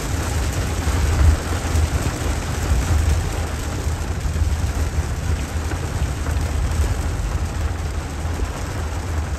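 Heavy rain beating on a car's roof and windshield, heard from inside the car, over a steady low rumble.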